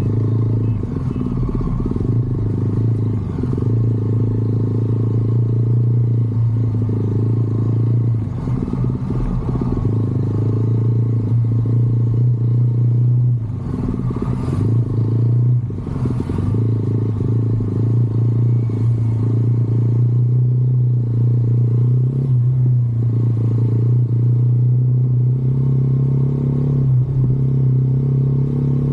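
Motorcycle engine running steadily under way, a strong low steady note with a few brief dips in the middle.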